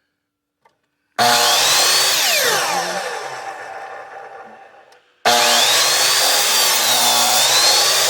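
Ryobi miter saw run twice. The motor starts suddenly about a second in and the blade winds down over several seconds. It starts again a little past halfway and runs at full speed through the end, with its pitch rising and falling.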